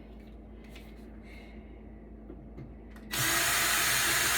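Power drill-driver running in one steady burst of about a second and a half, starting about three seconds in, backing out a screw from the back of a server chassis. Faint handling clicks come before it.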